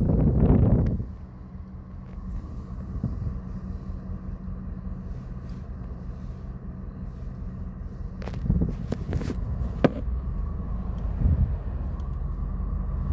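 A loud rush of noise for about the first second, then a car engine running with a steady low hum. A few sharp clicks come about two-thirds of the way through.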